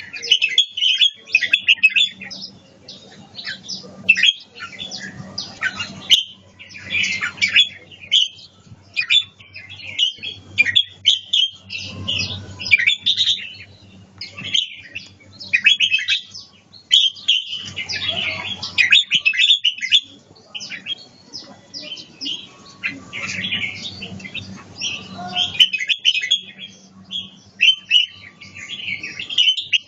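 Red-whiskered bulbul singing in the Chong Chi song style: bright, warbling phrases, each a second or two long, repeated with short pauses between them.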